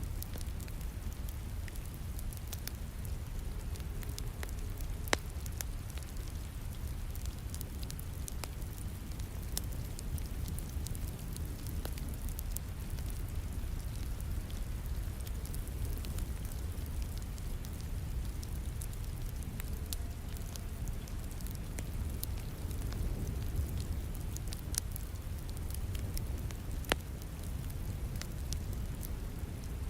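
Wood fire crackling in a fireplace, scattered small crackles with a couple of sharper pops, over a steady wash of falling rain with a low rumble.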